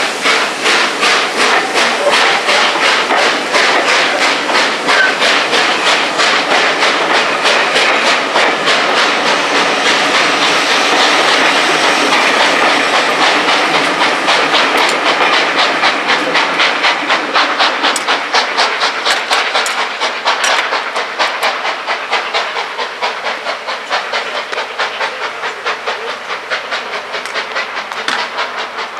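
Steam locomotive working a train, a steady rhythm of about four beats a second over a hiss, fading gradually as it draws away.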